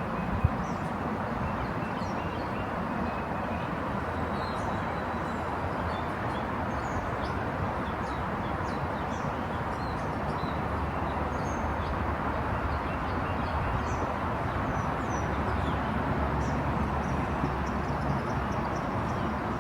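Steady outdoor background noise, strongest in the low range, with faint high bird chirps scattered through it and a single sharp click about half a second in.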